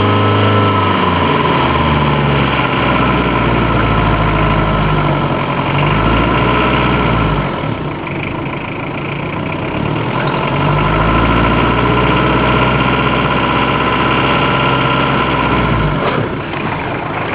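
Citroen BX engine being revved up and let back down a few times, with a raspy, hissy noise on acceleration, not like air escaping, that seems to come from the footwell; its cause is unknown.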